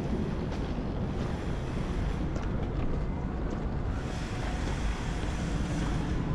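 Steady city street noise, a low rumble with wind buffeting the microphone.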